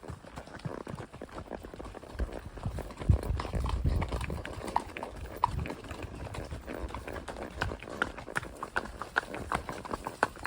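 Hoofbeats of a spotted saddle horse, a run of sharp clip-clops that turns more regular in the second half. A low rumble comes in about two seconds in and fades about six seconds in.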